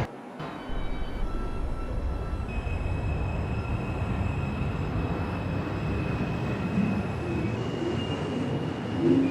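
R142 subway car pulling out of a station: a steady rumble of wheels on rail, with the propulsion motors' whine stepping up in pitch a few times as the train picks up speed.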